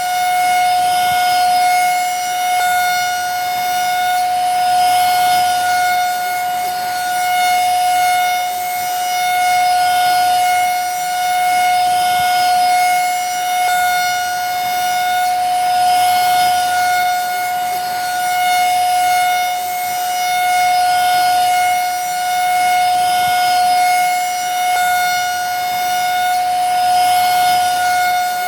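Vacuum cleaner motor running steadily: a constant high whine with overtones over the hiss of rushing air, swelling gently in loudness about every two seconds.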